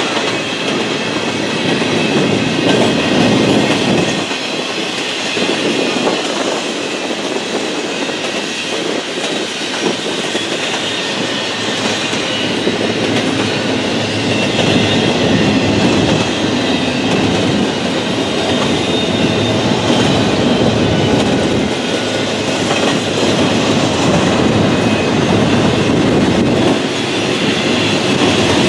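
Double-stack intermodal container train rolling past at steady speed: a continuous rumble and rattle of the well cars and their steel wheels on the rails.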